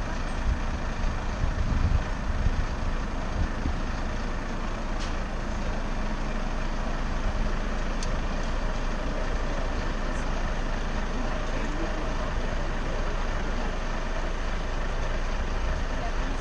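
City street traffic noise heard from a moving bicycle, with low wind rumble on the microphone that is heavier in the first few seconds, and a few faint clicks.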